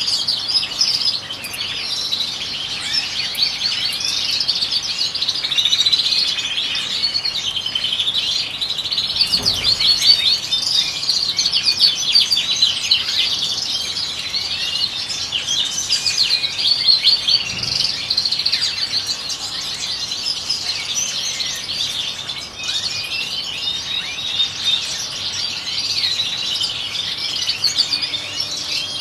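Several European goldfinches singing and twittering together in a dense, continuous chatter of quick, high notes, with a couple of soft thumps in the middle.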